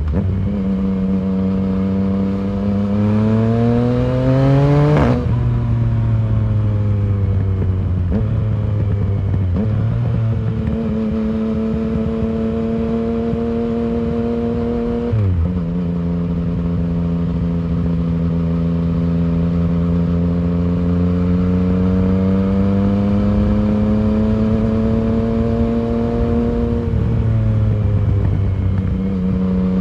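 2019 Yamaha MT-09's inline three-cylinder engine running through an Arrow full exhaust system while riding. The revs climb steeply in the first few seconds, then drop sharply about five seconds in and again about fifteen seconds in. They rise slowly for the next ten seconds and fall back near the end.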